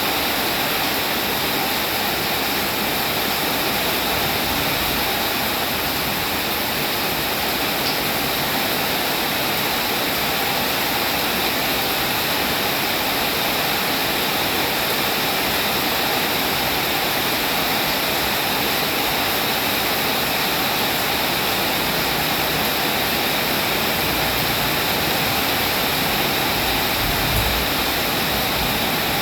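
Steady heavy rain falling, an even continuous hiss of water with no breaks.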